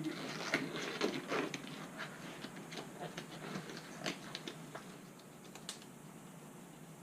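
Hands handling small objects: a rapid, irregular run of light clicks and rustles, busiest in the first couple of seconds and dying away about five seconds in.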